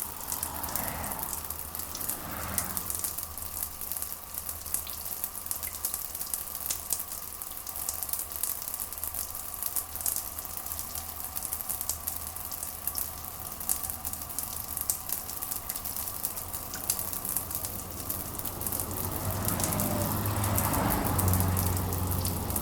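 Rain pattering steadily, a dense crackle of drops over a faint steady hum. A low rumble swells near the end.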